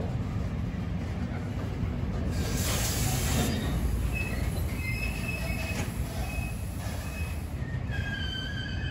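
Intermodal freight train's container wagons rolling past, wheels rumbling steadily on the rails. A short rush of hiss comes about two and a half seconds in, and high squealing tones from the wheels come in about halfway and grow stronger near the end.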